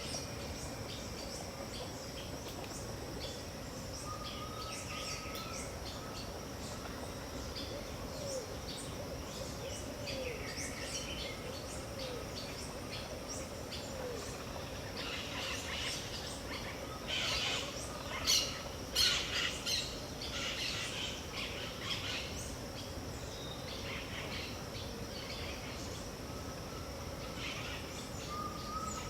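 Dawn chorus of several wild birds in the Pantanal wetland over a steady high insect hum: scattered chirps and a short rising whistle that repeats now and then, with a busy cluster of louder calls a little past the middle.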